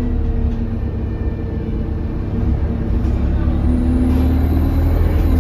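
Euro 6 Alexander Dennis Enviro200 bus engine running under load, heard from inside the bus, getting louder about halfway through. A thin, high turbo whistle rises and then falls over the last couple of seconds; the uploader puts the whistle down to a turbo leak.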